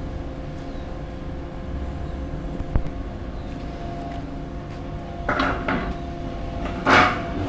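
Tractor engine running steadily while it powers a hydraulic log-loading crane. A sharp click comes about three seconds in, then a few clattering knocks, with the loudest brief harsh burst about a second before the end.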